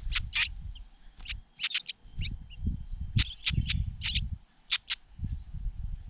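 Short, sharp bird call notes, about a dozen, repeated irregularly over the first five seconds, as a small bird flutters onto a grass ground nest and settles on its eggs. Low rumbling and rustling of movement close to the microphone runs underneath.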